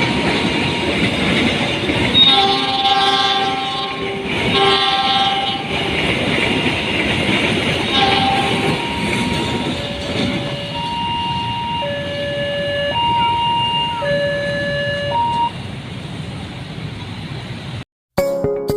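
Train passing over a level crossing, its wheels rumbling and clattering on the rails, sounding two long chord horn blasts and then a short one. A two-tone crossing warning alarm alternates between a lower and a higher pitch about once a second until it stops a few seconds before the end. Music cuts in at the very end.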